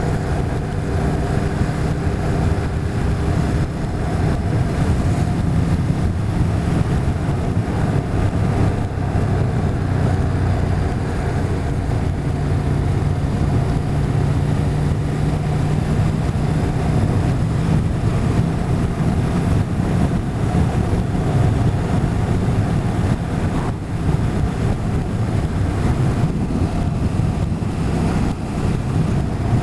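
Motorcycle engine running steadily at road speed, with wind noise over the microphone.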